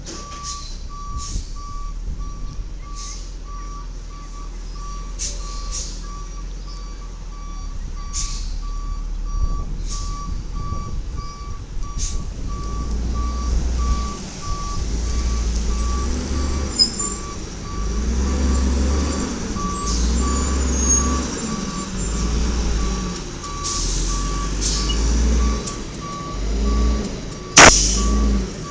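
Refuse truck's reversing alarm beeping steadily as the truck backs up, over its engine running, which swells in repeated surges from about halfway through. Near the end a single short, sharp burst is the loudest sound.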